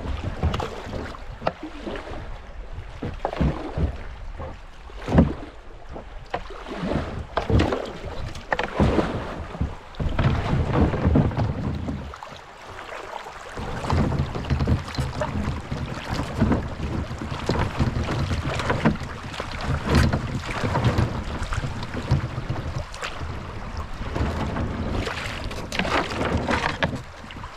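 Kayak paddling down a shallow creek: irregular paddle splashes and knocks over running water, with wind rumbling on the microphone.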